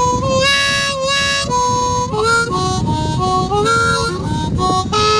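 Blues harmonica playing an instrumental fill of held notes, often two at once, with bent notes sliding in pitch.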